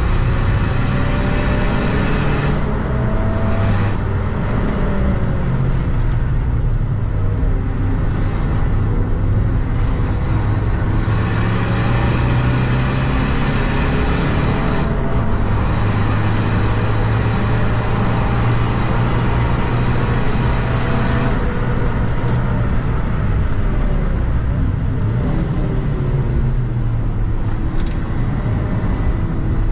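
Seat Ibiza FR's 2.0 TDI four-cylinder common-rail diesel engine heard from inside the cabin while driven hard on a race track, its note climbing and falling back again and again, over steady road and tyre noise.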